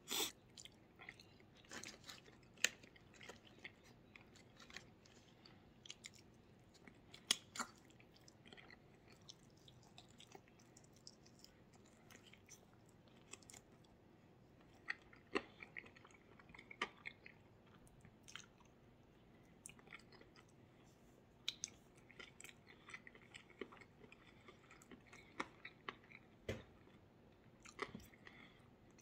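Faint, intermittent chewing and biting as a man eats a hot chicken wing drumette, with scattered short wet clicks and smacks of the mouth.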